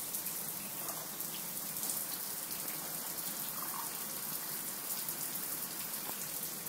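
Shower running: a steady spray of water falling onto the shower floor.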